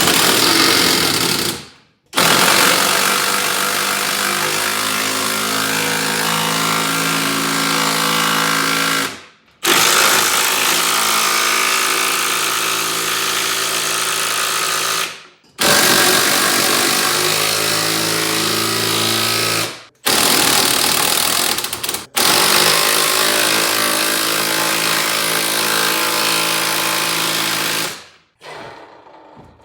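Power impact wrench driving bolts, in six runs of a few seconds each with brief stops between, the longest about seven seconds. It has a steady hammering whine.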